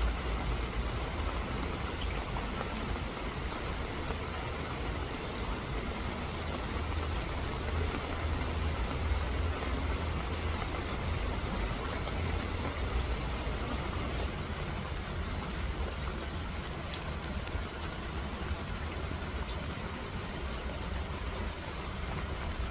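Steady rain falling, with a constant low rumble underneath and a few faint drop ticks.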